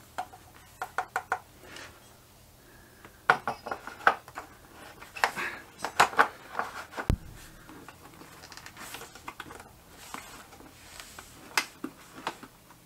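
Scattered clicks, taps and clinks of hands working at a motorcycle oil tank filler cap that is stiff and awkward to get off, with a single low thud about seven seconds in.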